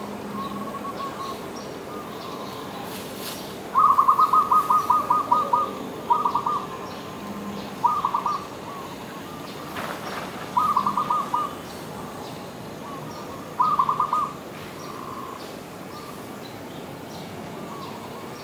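A bird calling in bursts of rapid, evenly repeated short notes: one long run of about a dozen notes, then four shorter bursts a couple of seconds apart.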